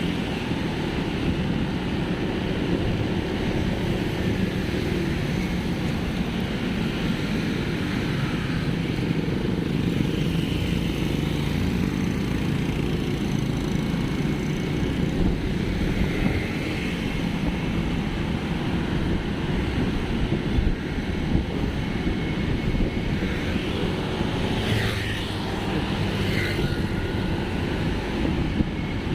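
Steady vehicle and road rumble with wind on the microphone, from a ride through traffic, with a couple of brief higher sounds near the end.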